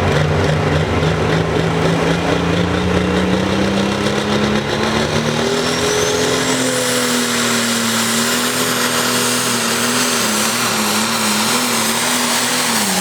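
International 1466 pro stock pulling tractor's turbocharged diesel engine at full power, pulling the sled, with a high turbo whine climbing in pitch about halfway through. Near the end the engine note wavers up and down as the tractor bounces on the track.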